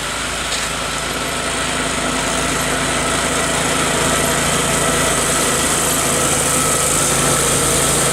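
Small garden-tractor engine running steadily, growing gradually louder.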